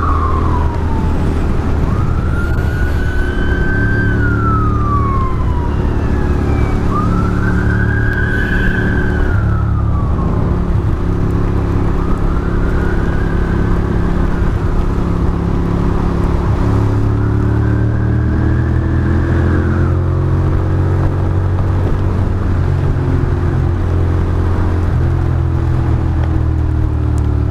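Ducati Monster's L-twin engine running steadily at highway cruising speed, while a siren wails slowly up and down every few seconds and fades away toward the end.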